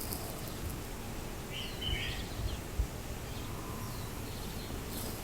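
Quiet outdoor ambience with a short bird chirp about a second and a half in, a few fainter bird calls later, and some low thumps.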